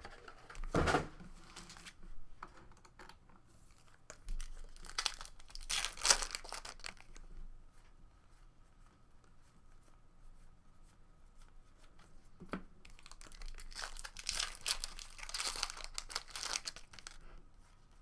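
Trading-card pack wrappers being torn open and crinkled, in short bursts of crackling: once about a second in, again around the middle and a longer spell near the end, with a single click in between.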